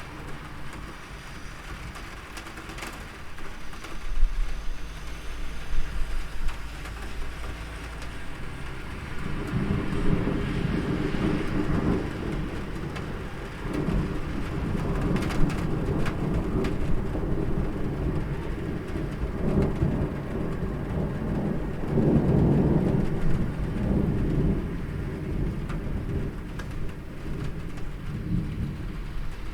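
Steady rain falling, with rolling thunder. The thunder builds about a third of the way in and swells and fades several times, loudest about three-quarters of the way through.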